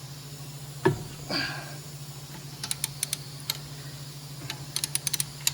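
One sharp crack as a front wheel-bearing bolt breaks loose under a socket wrench lengthened with a pipe. Two later runs of light clicking follow, from the socket tool as it is turned on.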